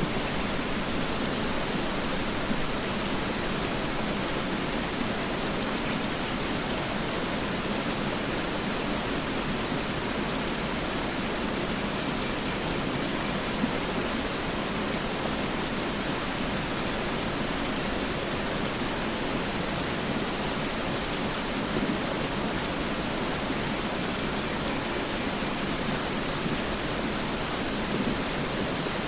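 Mountain river rushing over rocks: a steady, unbroken wash of water noise.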